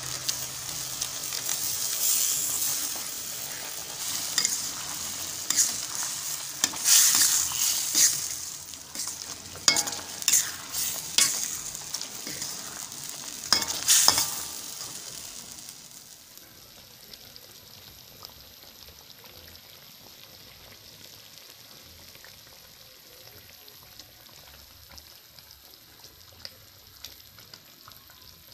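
Fried fish balls and sausages going into a wok of hot chili sauce, sizzling as they are stirred, with a utensil scraping and knocking against the wok. About halfway through the stirring stops and it settles to a quieter, steady sizzle.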